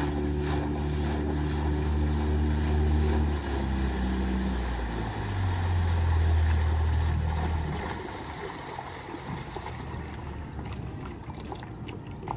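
Outboard boat engine running steadily under way; its pitch drops about three and a half seconds in, and about eight seconds in it falls quieter, leaving wind and water noise. This is a test run just after a service with oil change and carburettor cleaning.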